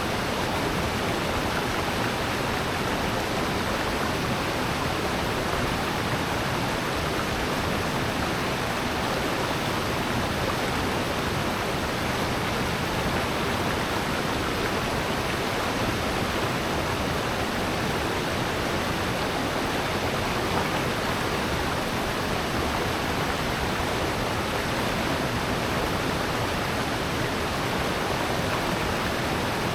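Rushing water in a mountain valley, a steady, even rush with no breaks or changes.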